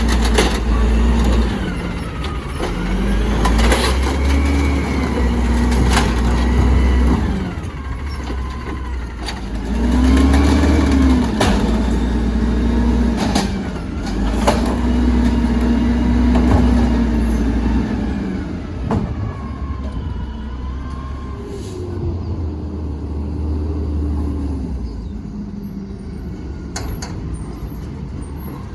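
Garbage truck's diesel engine revving up and dropping back several times, with sharp metallic clanks in between; it settles to a steadier, quieter run for the last several seconds.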